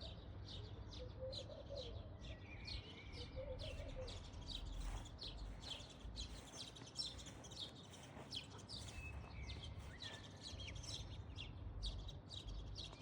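Birds chirping in a rapid, continuous chatter of short high chirps, several a second, over a faint low rumble.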